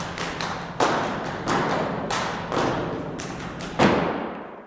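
A run of sharp thumps and knocks, each with a short ringing tail, coming irregularly about twice a second; the loudest falls near the end, then it all fades out.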